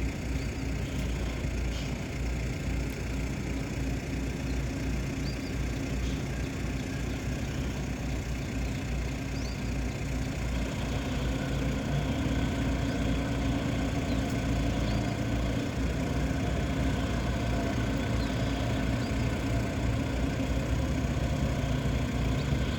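Tugboat diesel engine running steadily as it pulls away towing a string of loaded barges, growing louder about halfway through.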